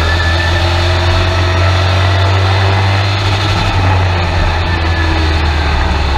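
Race truck's engine running steadily, heard from inside the cab, with a strong low drone and its pitch drifting gently up and down.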